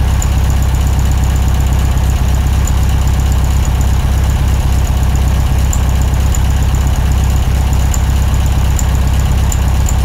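Air-cooled Volkswagen Beetle flat-four engine running at a steady, even speed, with a strong low drone.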